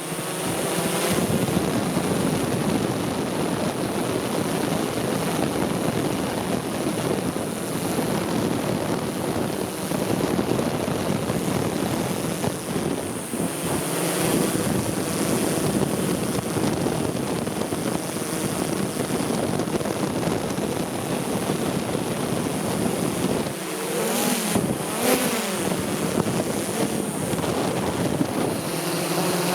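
Multicopter drone's propellers whirring steadily, mixed with wind noise on the microphone; the pitch of the motors wavers briefly near the end.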